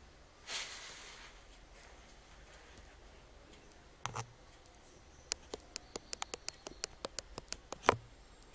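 A quick, irregular run of small sharp clicks and taps, about fifteen over two and a half seconds, with a soft thump before it and another at the end.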